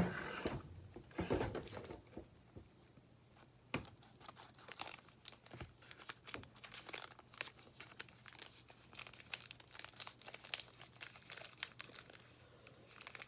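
Plastic wrapper of a chewy granola bar being torn open and crinkled by hand: irregular rustles and small crackles, pausing for about two seconds after the first rustles, then a long run of fine crinkling.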